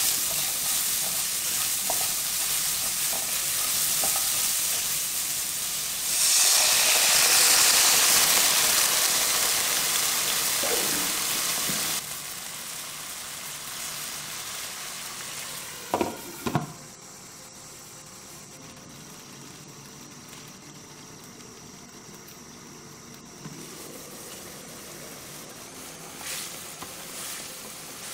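Loofah slices and garlic sizzling in a nonstick frying pan as a silicone spatula stir-fries them. The sizzle swells about six seconds in, then drops suddenly to a faint hiss about halfway through, and two sharp knocks follow a few seconds later.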